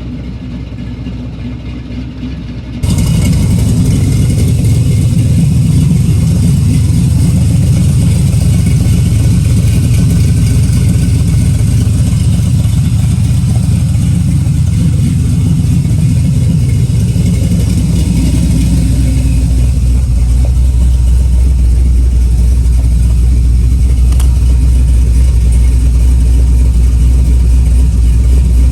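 Pontiac Trans Am's engine idling steadily with a low, deep note after a revised tune was loaded, which the owner judges to be running a lot better. About three seconds in it becomes much louder, and past the midpoint the low rumble grows stronger.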